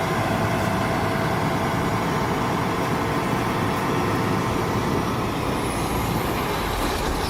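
Combine harvester running steadily, its engine and threshing machinery turning again after the plugged rear discharge beater has been freed.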